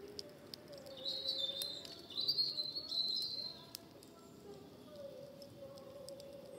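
A garden songbird singing a high, wavering phrase for about three seconds, over scattered sharp crackles from a wood campfire.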